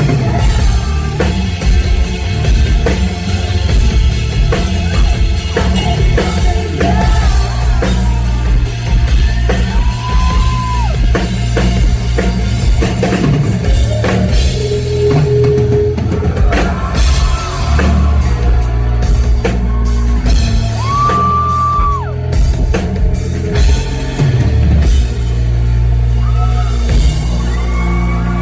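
Live rock band playing: drum kit, bass and electric guitar under a singer who holds a few long notes.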